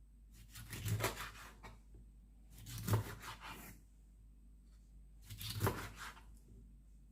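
Kitchen knife cutting through a fish, three separate cutting strokes about a second long, each with a dull knock.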